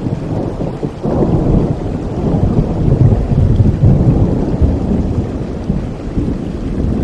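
Thunder rumbling over steady rain. The rumble swells about a second in, is loudest midway, and slowly fades.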